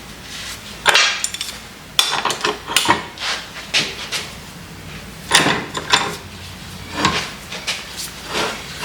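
Metal parts of a Kurt milling vise being handled during disassembly: irregular clanks and knocks of metal on metal, about eight main ones, some with a short ring.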